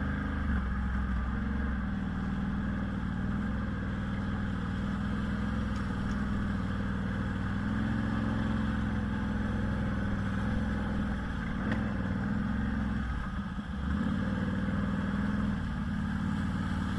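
A vehicle engine running steadily, with a brief dip about thirteen seconds in, then a short loud knock just as the sound cuts off.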